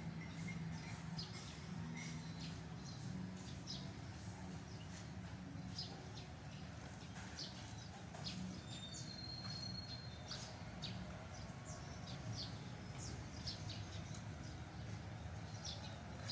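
Small birds chirping in short, scattered high chirps, over a faint steady low hum.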